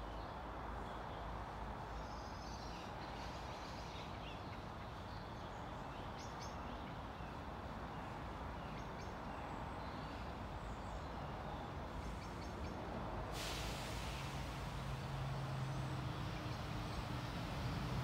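Quiet outdoor background with scattered faint bird chirps. About two-thirds of the way in a hiss rises suddenly and the steady low drone of an approaching Class 172 diesel multiple unit grows louder.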